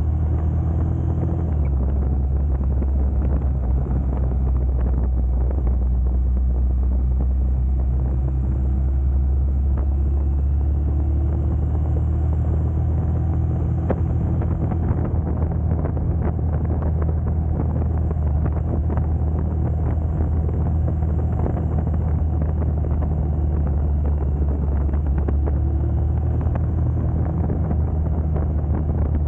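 Honda GB250 Clubman's single-cylinder four-stroke engine running steadily while riding, its note shifting slightly about a second and a half in as the throttle or gear changes.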